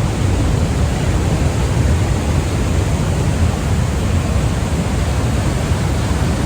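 Steady roar of Niagara's falling water, a loud, even rushing noise heavy in the low end.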